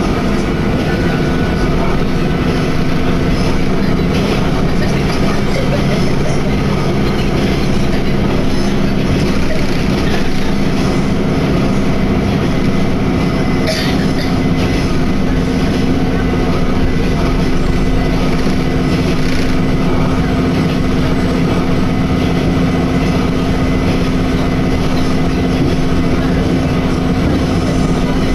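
Steady running noise inside a Tenryū Hamanako Railway diesel railcar under way: engine drone and the rumble of the wheels on the track, with one brief knock about halfway through.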